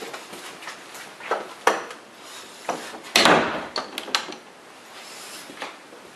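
A door being handled: several knocks and clicks, with a louder short scrape a little after three seconds in.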